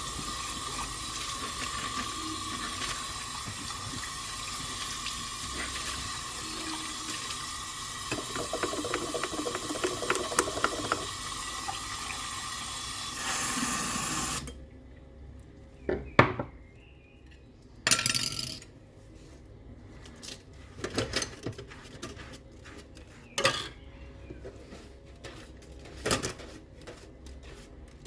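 Kitchen tap running into a sink while dishes are washed, with some rattling of dishes under the stream. The water shuts off suddenly about halfway through, followed by scattered clinks and knocks of dishes being handled.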